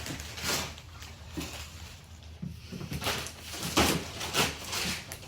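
A series of brief knocks and rustles from things being handled, about five in a few seconds.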